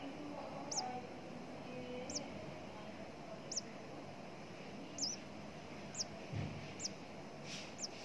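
Nestling bird cheeping: short, high, thin chirps about once a second, seven in all, one of them doubled.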